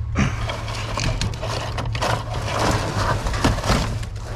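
Rummaging through junk in a dumpster: a steady run of knocks, clatters and rustles as items are shifted, over a steady low hum.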